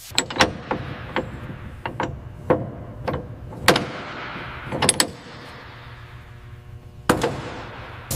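Irregular sharp metallic knocks, about a dozen, each with a brief ringing tone, as metal parts are struck during a structural repair. The knocks come close together for the first five seconds, then there is a lull, and one last knock comes about seven seconds in.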